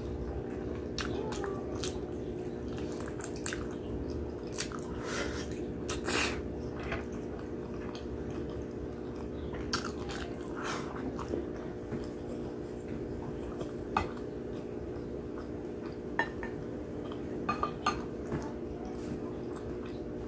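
Close-up wet chewing and lip smacking of sticky braised pork hock and rice, with many short clicks and smacks scattered through. A steady low hum sits underneath.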